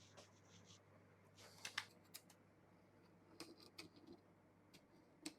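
Faint scratching and light clicks of a scriber or divider point on cast iron, scribing a layout circle, in a few short strokes.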